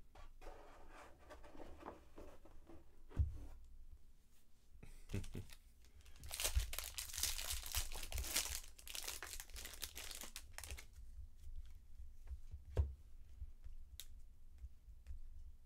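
Foil wrapper of a 2019 Bowman Draft Jumbo baseball card pack being torn open and crinkled, loudest for several seconds in the middle, with a few sharp clicks.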